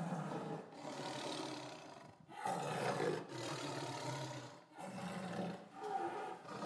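Lion roaring: a run of about four low, drawn-out calls, each a second or two long, with short breaks between them.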